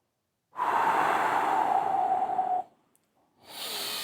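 A long blown exhale through rounded lips, like blowing out a candle: the kidney 'choo' healing sound of the six healing sounds breathing exercise, about two seconds long, its pitch sinking slightly. Near the end a softer breath is drawn in.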